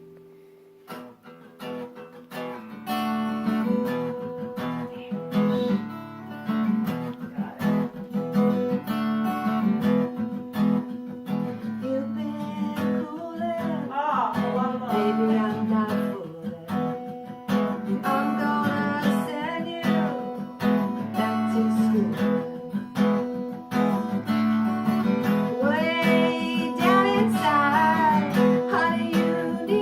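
Acoustic guitar strummed steadily, starting about a second in, with a woman singing over it from about halfway through.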